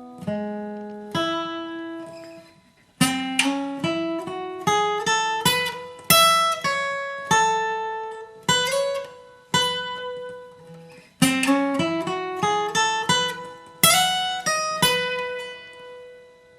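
Acoustic guitar picking a bluegrass lead: single notes and quick runs, each note struck sharply and then ringing, with a short pause about three seconds in.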